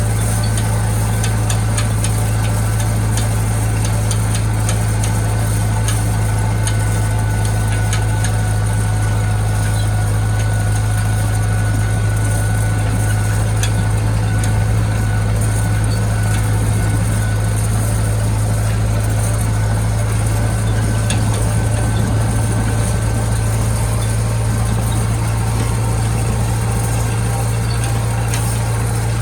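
International Harvester tractor engine running at a steady speed, a low unbroken drone with faint scattered ticks over it.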